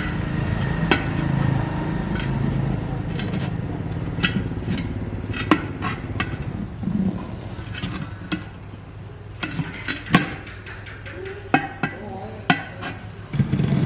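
An engine runs with a steady low hum for the first few seconds and then fades away. Scattered sharp metallic clinks and knocks, like tools and parts being handled, run through the rest.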